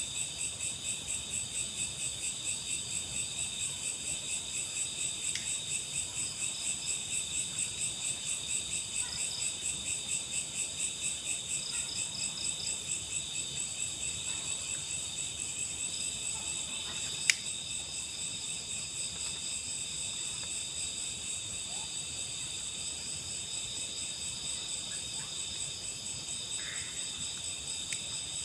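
A chorus of night insects trilling at several high pitches at once, pulsing evenly a few times a second. One sharp click about two thirds of the way through.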